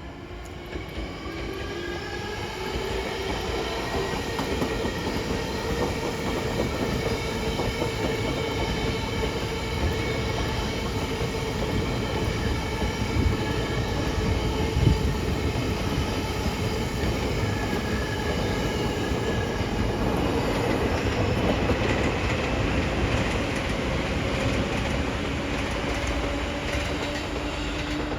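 Seibu Railway electric commuter train passing close by, its wheels clattering and rumbling on the rails under steady whining tones. The sound swells over the first few seconds and then holds loud.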